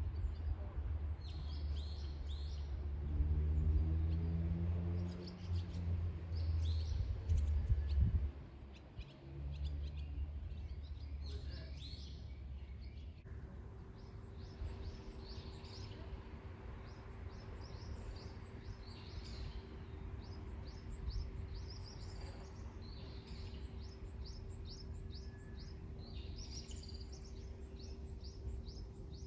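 Wild birds chirping and singing in short high phrases and trills throughout. For the first eight seconds a low engine drone runs under them, rising in pitch around the fourth second before dying away; later a faint steady hum remains.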